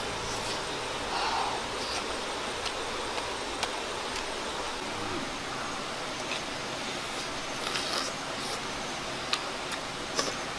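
Mouth sounds of someone eating a roasted chicken drumstick: scattered short clicks and smacks of chewing over a steady hiss.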